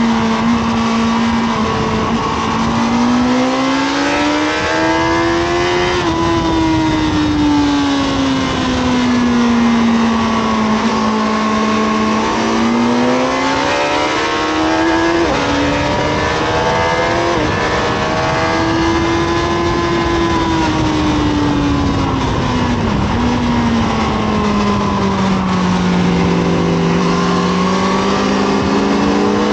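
Honda CBR1000RR Fireblade's inline-four engine heard onboard at speed on a race track, its pitch rising and falling every few seconds as the rider opens and closes the throttle through corners, with a couple of brief pitch steps in the middle that sound like gear changes.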